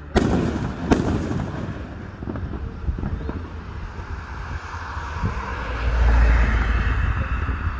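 Aerial fireworks going off: two sharp bangs about a second apart near the start, then crackling, and a louder deep rumble around six seconds in.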